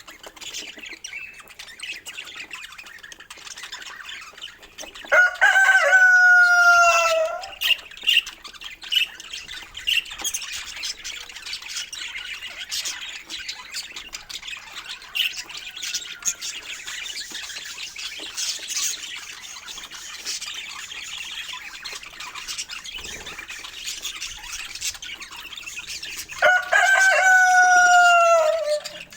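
Budgerigars chattering and warbling continuously. Two long, loud bird calls break through, one about five seconds in and one near the end, each dropping in pitch as it ends.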